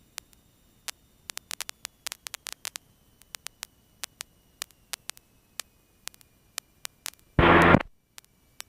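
Radio and intercom audio feed crackling with scattered sharp static clicks, with one short burst of hiss about seven and a half seconds in, an open-squelch or keyed-but-silent transmission.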